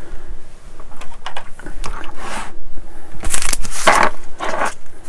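Plastic bags of model-kit parts crinkling and rustling as they are handled and opened, in a run of irregular crackles that are loudest a little past halfway.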